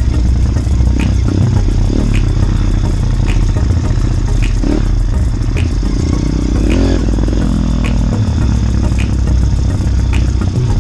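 Small motorbike engine running steadily under heavy low rumble, with a faint regular tick about once a second; a little before the two-thirds mark its pitch drops as it comes off the throttle.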